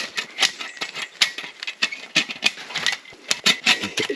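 Dry branches being snapped and broken off a fallen tree: a quick, irregular run of sharp cracks and crackles.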